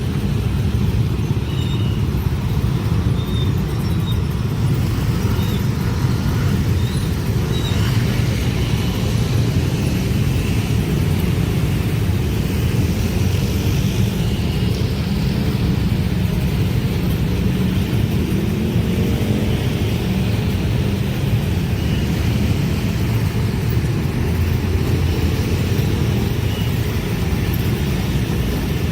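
A long train passing over a level crossing: a steady, loud low rumble of the wheels on the rails that goes on without a break.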